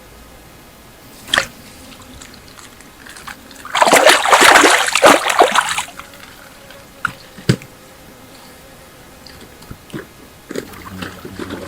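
Water splashing and sloshing for about two seconds, after a sharp click, with a few smaller knocks afterwards.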